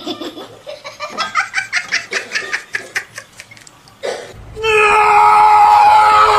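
Laughter in quick rhythmic bursts, about three or four a second. About four and a half seconds in it gives way to a louder, steady, high-pitched held cry.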